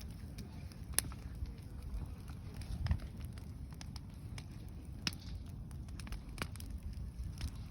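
Bonfire burning and crackling, with scattered sharp pops over a steady low rumble.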